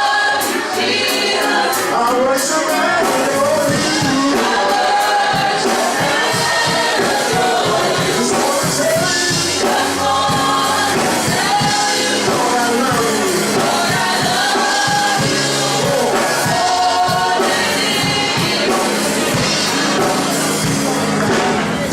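Gospel music with singing, a choir or group of voices over a full instrumental backing.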